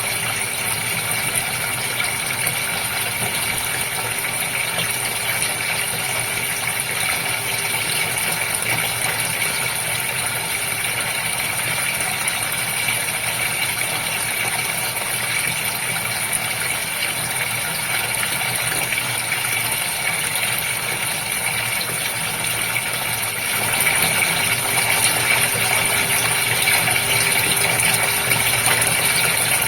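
Aquarium pump running steadily with a low hum, over the constant noise of moving water in the goldfish tank; it grows a little louder for the last few seconds.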